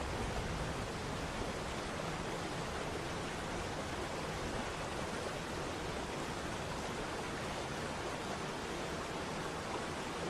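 Waterfall: steady rushing of falling water with no change in level.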